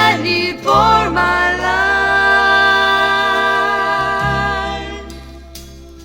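Gospel song recording: singing over bass and backing, ending on one long held note that fades away near the end.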